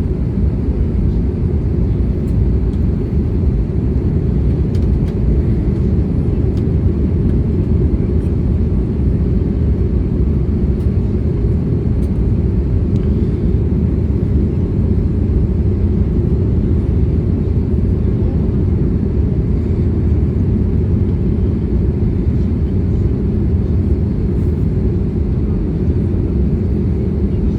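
Airbus A320neo cabin noise on final approach: a steady, low rumble of jet engines and airflow over the fuselage, with no change in level.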